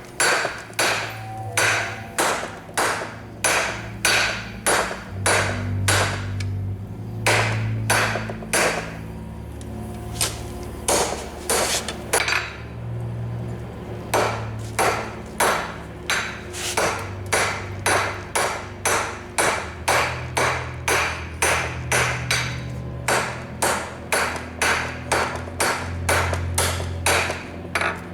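Blacksmith's hand hammer striking metal on an anvil in a steady rhythm of about two blows a second, pausing briefly about a third of the way in and again near the middle. A low hum that steps between pitches runs underneath.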